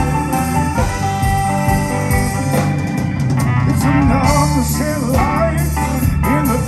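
A live blues band plays an instrumental break, with guitar over drums and bass. From about four seconds in, a lead line wavers and bends up and down in pitch.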